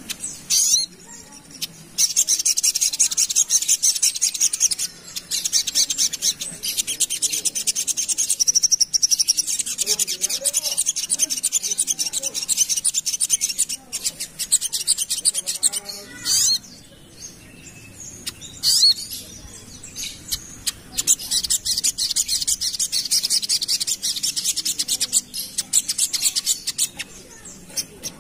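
Little spiderhunter (sogok ontong) singing a rapid, high-pitched chattering song in long unbroken runs, with short pauses between runs.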